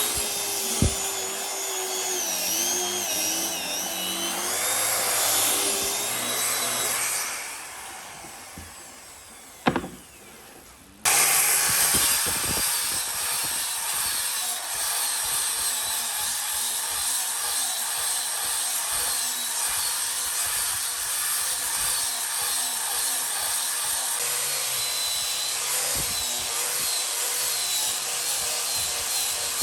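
A handheld power tool working on wood: a loud, dense grinding with a wavering pitch. It winds down about seven seconds in and, after a knock, starts again abruptly at about eleven seconds and runs on steadily.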